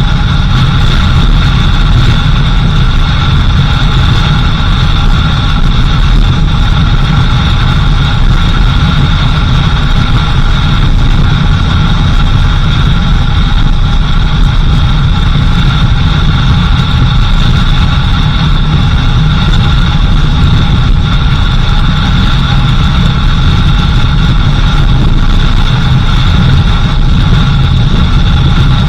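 Vehicle engine and road noise while driving on a dirt road: a loud, steady low rumble with a few steady high-pitched tones running over it.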